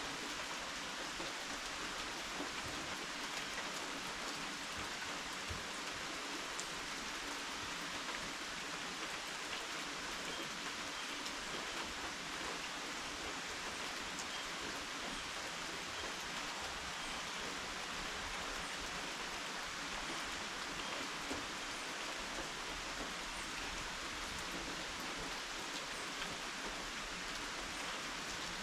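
Steady rain falling, a dense even hiss with scattered drops ticking on surfaces close by.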